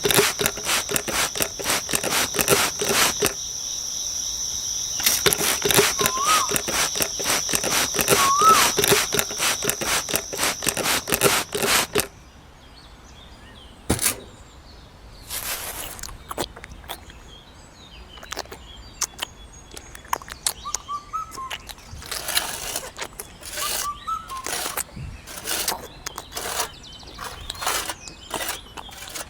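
Dense rapid clicking and scraping with a steady high tone for about twelve seconds, then quieter scattered clicks and taps. A bird chirps a few times.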